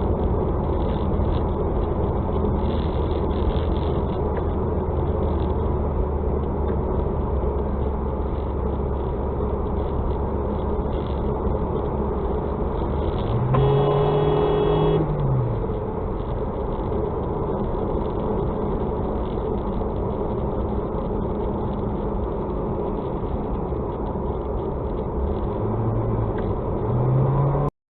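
Steady car engine and road noise, heard from inside a moving car. About halfway through, a car horn sounds for about a second and a half.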